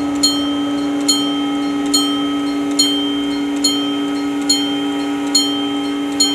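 Level crossing warning bell striking steadily, eight times, a little more than once a second. Each strike rings on into the next, over a steady low hum.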